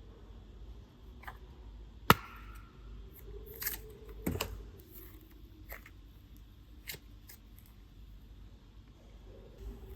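Scattered clicks and taps from small objects being handled, as with clay and plastic toys, with one sharp click about two seconds in and a few more around the middle.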